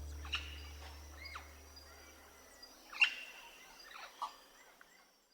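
Scattered short bird chirps and calls, the loudest about three seconds in, over the low notes of background music fading out during the first couple of seconds.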